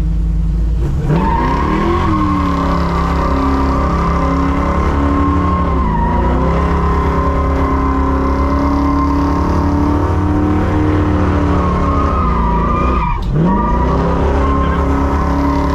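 Holden HQ Monaro muscle car doing a skid: the engine revs climb about a second in and are held high while the rear tyres squeal. Near the end the revs drop sharply and climb back.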